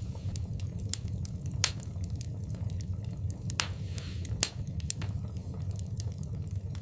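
Wood fire in a fireplace crackling, with irregular sharp pops over a steady low rumble; the loudest pops come a little under two seconds in and again about four and a half seconds in.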